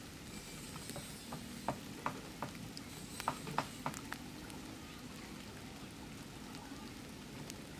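Rain falling steadily, an even hiss of rain with scattered louder drips and taps, a cluster of them a couple of seconds in.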